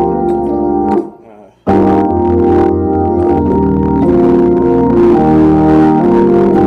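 Organ-sounding keyboard playing held chords that change every second or two. The sound breaks off for under a second about a second in, then the chords resume.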